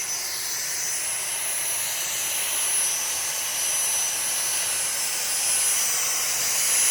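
Dyson cordless stick vacuums running steadily as they suck up dandelion seed heads: a rush of air with a high-pitched motor whine.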